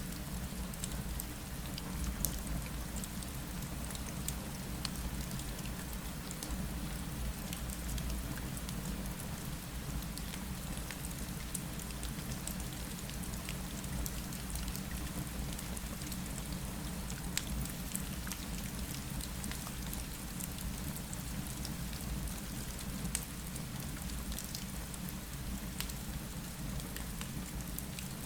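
Steady rain falling against a window, mixed with a low rumble and faint scattered crackles of a fireplace fire.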